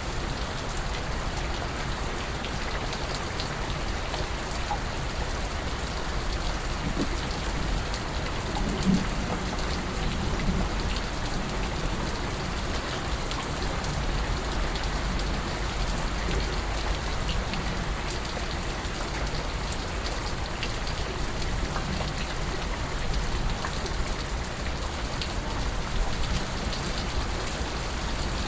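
Steady rain falling, with scattered drips and a low rumble underneath.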